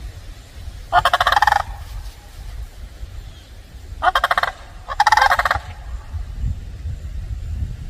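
A large bird gives loud, rolling, rapidly pulsed calls three times: one about a second in, then two close together near the middle.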